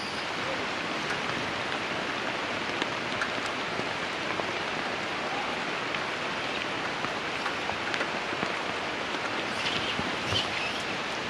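Steady rain falling on wet stone and leaves: an even hiss with scattered drop ticks.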